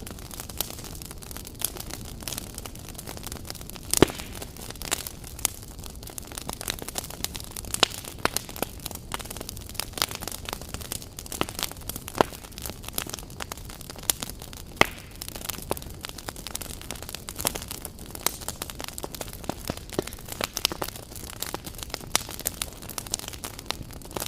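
Wood fire crackling: a steady hiss of burning logs under frequent irregular sharp pops and snaps, one louder pop about four seconds in.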